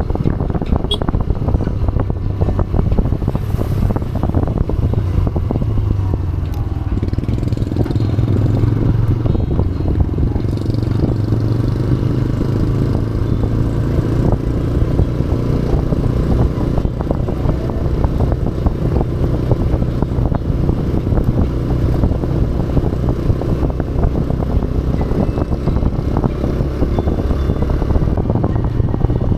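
TVS Raider 125's single-cylinder four-stroke engine running steadily under way, with the knocks and rattle of the bike on a rough trail.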